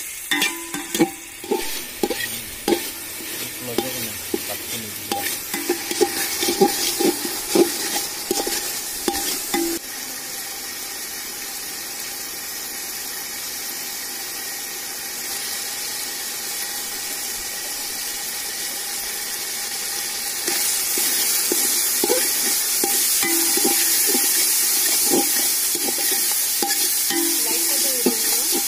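Onion-tomato masala frying in oil in a metal pot, with a metal spatula scraping and knocking against the pot through the first ten seconds. After that the sizzle goes on steadily and gets louder about two-thirds of the way through.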